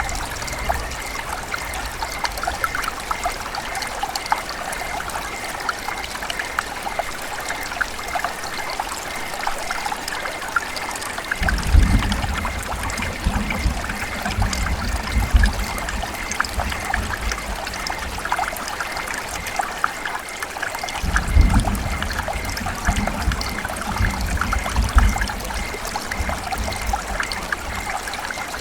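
River water running and trickling steadily, with two spells of low rumbling, one about twelve seconds in and one about twenty-one seconds in.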